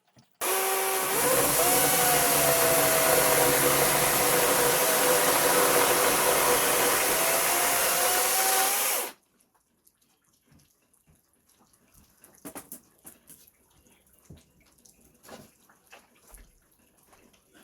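Electric power drill boring through wood, running steadily for about eight and a half seconds, its motor pitch dipping and rising under load, then stopping suddenly. Faint knocks follow.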